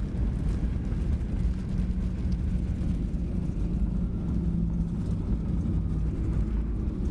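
Steady low rumble inside the cabin of a Boeing 737-800 taxiing after landing, its engines at low power, with a faint hum running through it.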